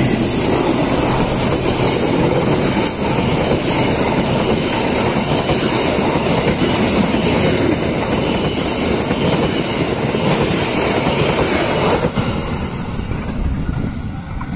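Stainless-steel passenger carriages of a train passing close by, their wheels rolling and clattering on the rails. The sound drops somewhat about twelve seconds in as the last carriages go past and the train draws away.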